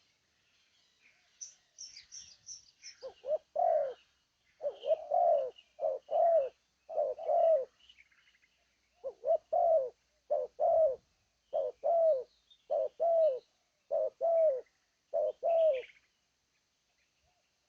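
Spotted dove cooing: a series of phrases of two or three low coos each, starting about three seconds in and stopping shortly before the end. Small birds chirp faintly and high, mostly in the first few seconds.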